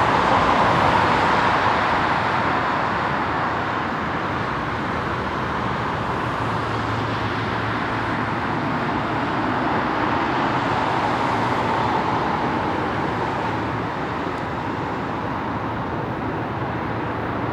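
Steady rushing jet noise from the GE90 engines of a FedEx Boeing 777F freighter, a little louder in the first couple of seconds and then easing slightly.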